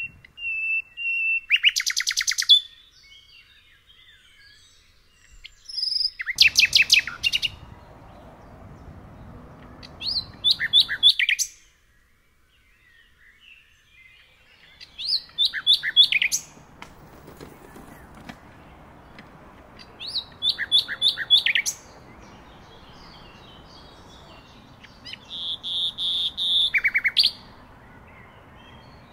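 A songbird singing short phrases of rapid repeated notes that drop in pitch, about six phrases each a second or two long and coming every four to five seconds, over faint background noise.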